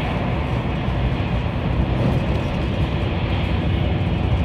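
Steady low rumble and rushing noise of a high-speed train, heard from inside the carriage as it runs at speed across a steel truss bridge.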